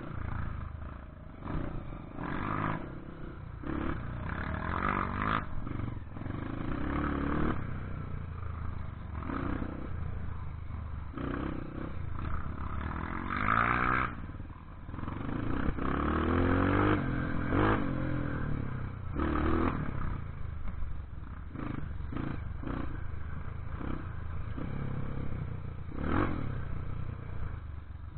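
Off-road trail motorcycle engine revving up and falling back again and again, with frequent short knocks and rattles.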